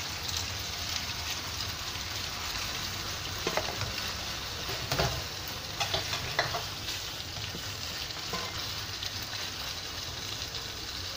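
Bean curd skin, potato and glass noodles sizzling in a wok, stirred with a spatula that scrapes and knocks against the pan several times around the middle.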